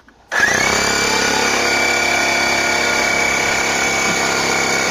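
Electric air pump switching on, its motor whining up in pitch for a moment and then running steadily.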